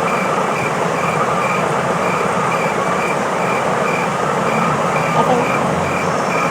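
Steady noise of a moving train, with a faint high beep repeating about three times a second.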